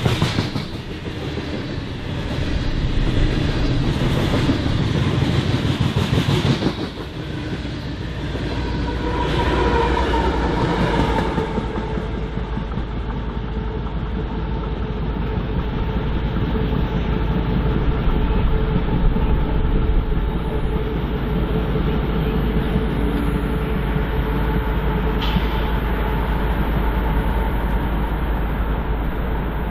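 BNSF freight train rolling past, its cars running on the rails with a steady rumble. The sound is fuller and brighter for roughly the first dozen seconds, then settles into a duller, steady rumble.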